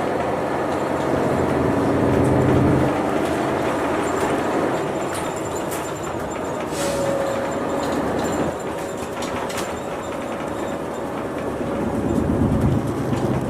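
City bus driving, heard from inside the cabin: steady road noise and the engine's low hum, which is stronger at the start and again near the end, with a few light clicks and rattles.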